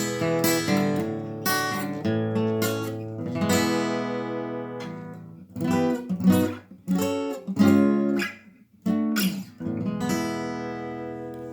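Seagull S6 cedar-top steel-string acoustic guitar strummed in chords. Partway through, the strums become short and clipped, with brief stops between them. Near the end a final chord is left to ring and slowly fade.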